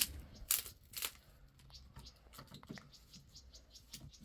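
Scattered light scratching and clicking, with two louder scrapes in the first second, then faint irregular ticks.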